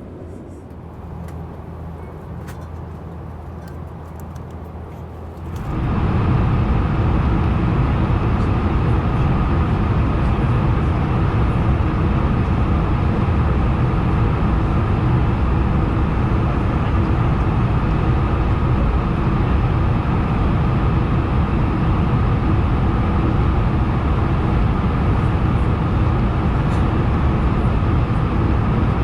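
Airliner cabin noise in an Airbus A220-100. A low steady hum at first, then about six seconds in a sudden jump to a much louder, steady rush of jet engine and airflow noise that holds on.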